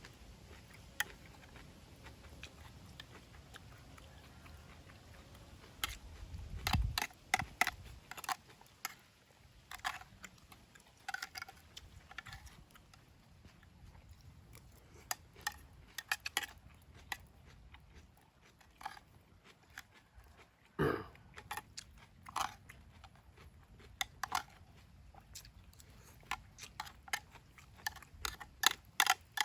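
A person eating: irregular crunchy bites and chewing, with sharp clicks scattered through, and one brief low sound about two-thirds of the way in.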